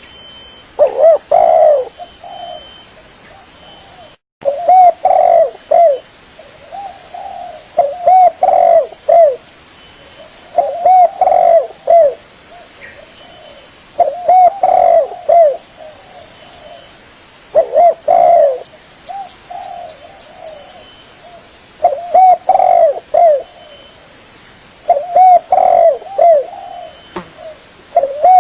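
Spotted dove (tekukur) cooing: a phrase of several low, rounded coos repeated about every three to four seconds, played as a bird-lure call. The sound cuts out for a moment about four seconds in.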